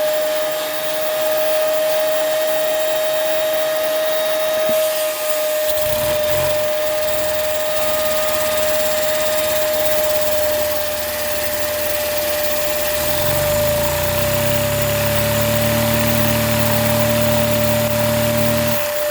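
Vacuum cleaner running with a steady whine, driving a Lego engine that spins up. A lower hum joins about six seconds in and grows into a stronger low drone from about thirteen seconds, as the engine gathers speed toward 2,000 rpm.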